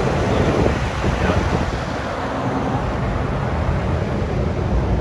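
Wind buffeting the microphone over a steady low outdoor rumble.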